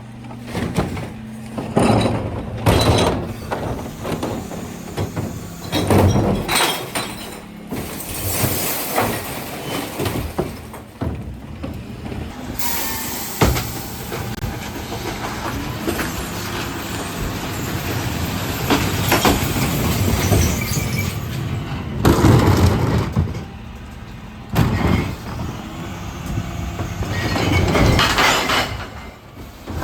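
Dennis Elite 6 refuse truck emptying recycling bins: the lifter tips blue bins and bottles, cans and plastics crash and clatter into the body, over the steady running of the engine and hydraulics. The crashes come again and again, the loudest near the end.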